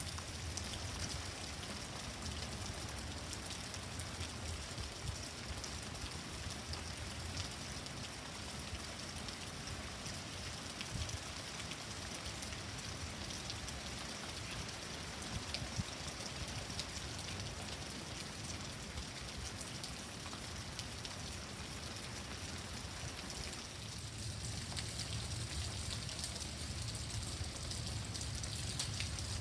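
Heavy rain pouring down steadily, a dense even hiss of drops hitting surfaces. A low rumble grows a little louder near the end.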